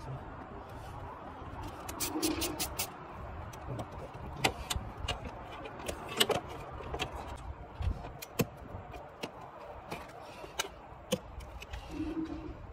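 Scattered sharp metallic clicks and clinks of hand tools being handled while working on a car engine, over a steady background hum. A muffled voice is heard briefly about two seconds in and again near the end.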